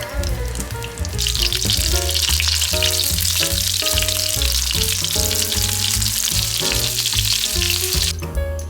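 Meat patties sizzling as they fry in a pan: a dense hiss that starts about a second in and cuts off sharply near the end. Background music with a steady bass line runs throughout.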